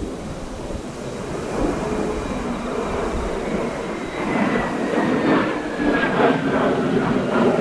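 Mitsubishi F-2 fighter's jet engine going past on landing: a whine that falls steadily in pitch over a rushing roar that grows louder in the second half.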